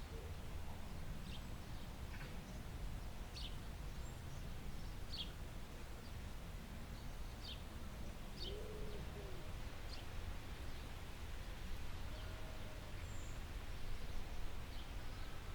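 Forest birds: scattered short high chirps over a steady low rumble, with a few low cooing calls, the clearest about eight seconds in.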